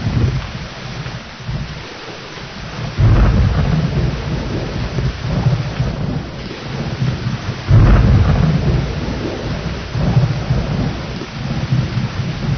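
Steady heavy rain with rolling thunder: two thunder claps break in suddenly, about three seconds in and again near eight seconds, each rumbling down over the next few seconds.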